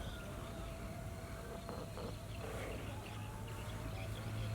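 Outdoor ambience: faint scattered bird chirps over a steady low hum.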